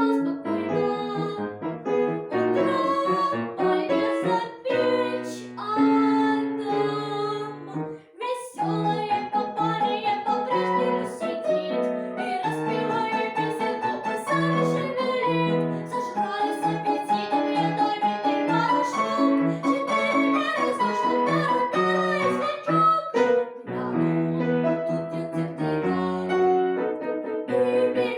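Piano playing a melody over chords, with short breaks about eight seconds in and again near the end.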